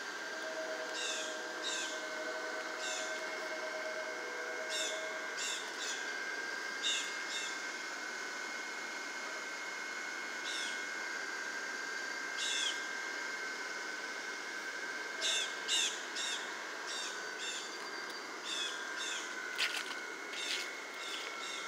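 Short high bird chirps, single and in quick pairs, scattered throughout and more frequent near the end. Under them runs the steady hum and thin whine of the blower fans keeping a yard full of inflatable dragon decorations inflated.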